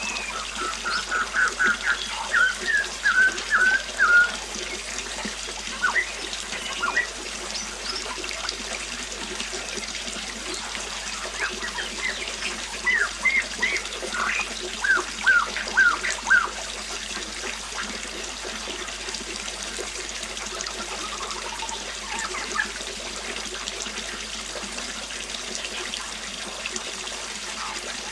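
River water running steadily, with birds chirping in quick series, the loudest runs about a second in and again about twelve seconds in.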